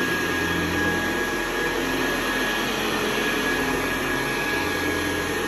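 A 1974 Hoover Convertible U4047 upright vacuum cleaner running steadily, a constant rushing motor noise with a thin steady whine.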